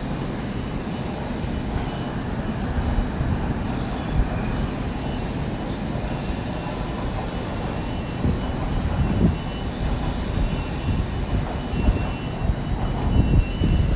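London Underground train pulling out, its wheels squealing on the rails in thin high tones that come and go over a steady low rumble.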